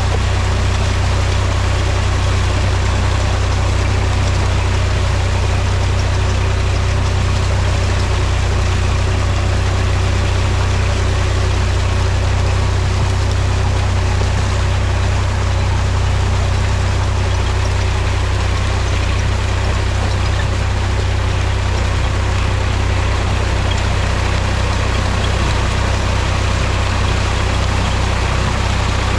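Mahindra tractor's diesel engine running at a steady speed, a loud, even low hum that does not change.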